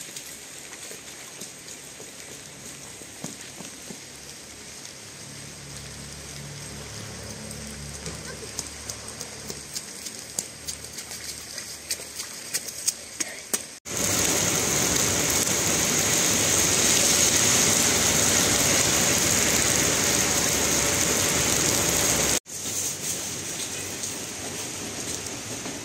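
Heavy rain in several cut-together shots. First, drops click sharply on a surface and grow denser. About 14 s in, a cut brings a loud, steady downpour. Near the end, a cut drops back to quieter rain.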